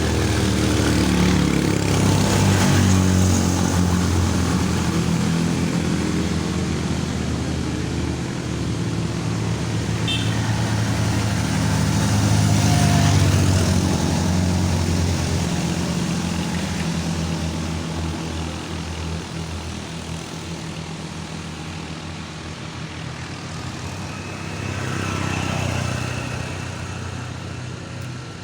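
Motor vehicle engines running under load on a steep uphill climb, the sound swelling and fading three times as vehicles pass.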